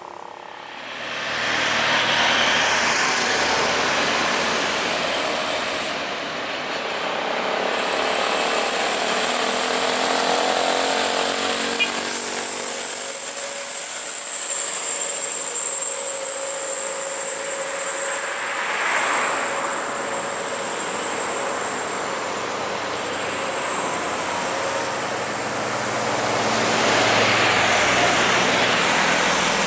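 Heavy trucks passing one after another on an uphill grade, diesel engines labouring and tyres hissing, the noise swelling as each vehicle goes by, with engine pitch gliding up and down partway through. A steady high-pitched tone runs along underneath for most of the time.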